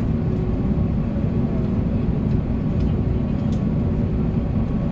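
Steady low rumble of an Airbus A321neo's cabin on the ground after landing, with a faint steady hum and murmur of passengers in the background.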